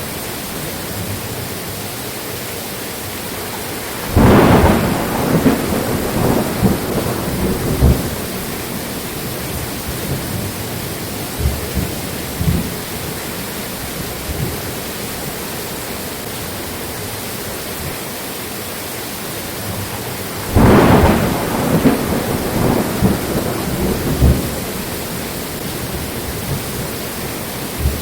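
Steady rain with two thunderclaps, one about four seconds in and one about twenty seconds in, each rolling on in several loud jolts for about four seconds.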